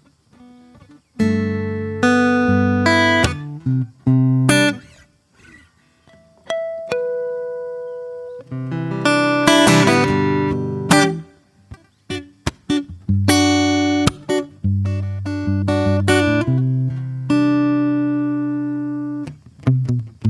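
Solo acoustic guitar improvising slowly: plucked notes and chords that ring out and fade, with short pauses between phrases and a brief quicker run of notes about halfway through.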